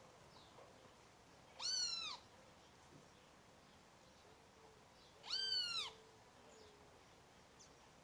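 An animal calls twice, about three and a half seconds apart: two short cries, each rising then falling in pitch.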